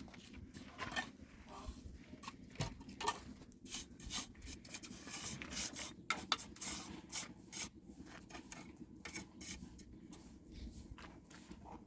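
Irregular rubbing and scraping strokes, several a second and densest in the middle, over a low steady hum.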